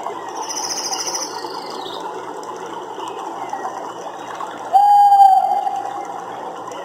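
Nature soundscape of animal calls over a steady chorus. A fast, high trill sounds in the first two seconds, and about five seconds in one loud animal call at a single steady pitch is held for about a second and a half.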